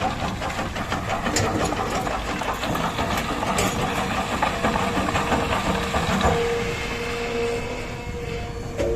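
Heavy diesel machinery running with a fast, even clatter. A steady whine joins in from about six seconds in.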